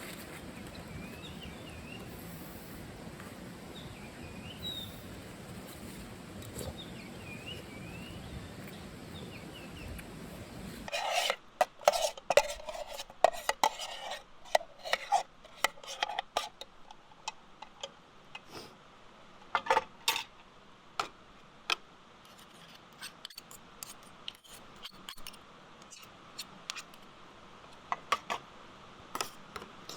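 Birds chirping over a steady outdoor background for the first third. Then the background drops away suddenly and a spoon clinks and scrapes against an aluminium mess tin in quick, uneven strokes, thinning to scattered clinks toward the end.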